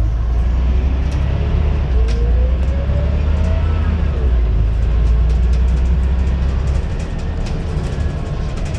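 Scania N94UD double-decker bus with a ZF automatic gearbox under way: a deep engine rumble, with a faint gearbox whine rising in pitch for a second or two as the bus accelerates. Scattered rattles and knocks come through it.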